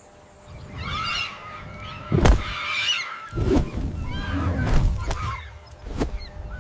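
Birds giving repeated honking calls over a low rumbling background, with a sharp thump about two seconds in and another near the end.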